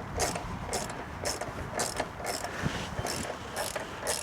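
Small socket ratchet wrench clicking in short back-and-forth strokes, about two to three a second, as a front brake caliper bolt is being undone.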